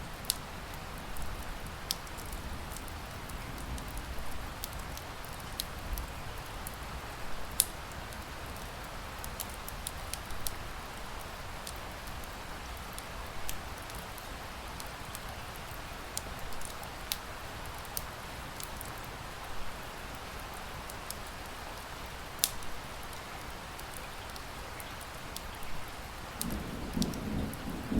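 Steady rain with the sharp, scattered pops and crackles of a wood fire in a fireplace. A low rumble begins near the end.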